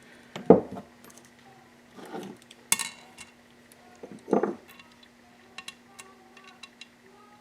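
Small metal parts clinking against the engine crankcase as the bearing keepers are fitted: four louder clinks and knocks over the first four and a half seconds, then several light ticks, over a faint steady hum.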